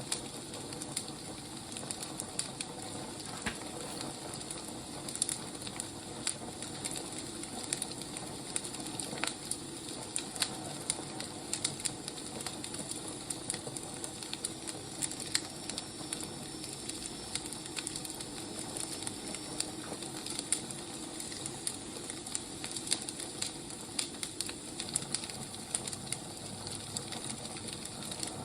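Burning firewood crackling: irregular sharp pops and snaps over a steady hiss.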